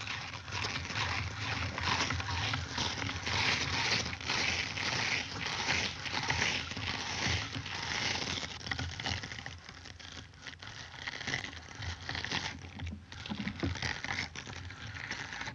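Cartoon sound effect: a long run of dense crackling and crunching noise, packed with rapid sharp clicks and fading a little about two-thirds of the way through.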